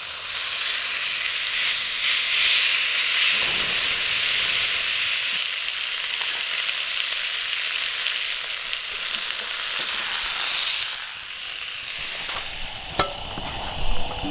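Shoulder-meat steak sizzling over a campfire: a steady, dense frying hiss that eases a little near the end, with a couple of sharp clicks.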